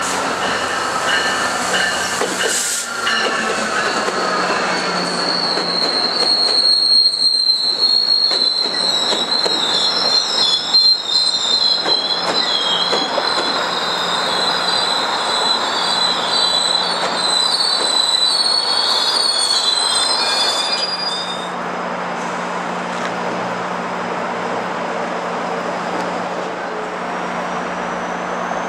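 GO Transit commuter train of Bombardier Bi-Level coaches rolling in alongside the platform and braking. Its wheels squeal high and unsteadily for about fifteen seconds. About three quarters of the way through the squeal stops and the train stands, leaving a steady hum.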